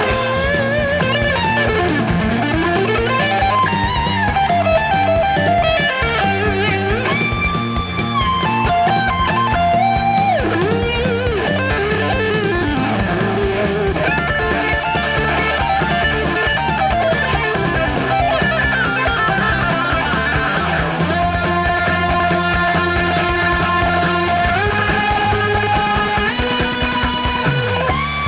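Instrumental 1970s hard rock: an electric lead guitar plays melodic lines with long bends and slides, over bass guitar and drums, with no singing.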